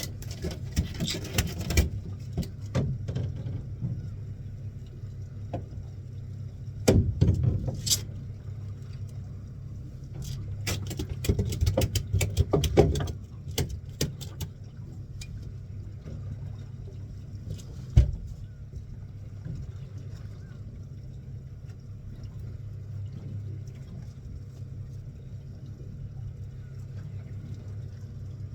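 A fishing boat's engine runs with a steady low hum. Scattered clattering and knocking comes in clusters near the start, around seven seconds and from about ten to thirteen seconds, with one sharp knock about eighteen seconds in.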